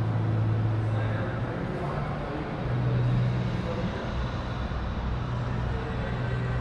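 A vehicle engine running steadily, its low hum rising slightly in pitch about three seconds in, with people talking in the background.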